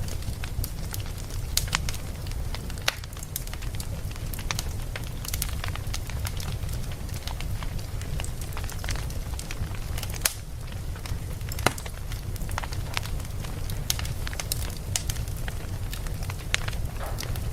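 Campfire burning, crackling with many irregular sharp snaps over a steady low rumble.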